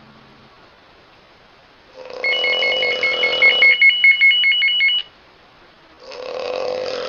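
A woman snoring: a long, loud snore about two seconds in, and another beginning near the end. During the first snore a trilling electronic ring, like a telephone's, pulses rapidly over it.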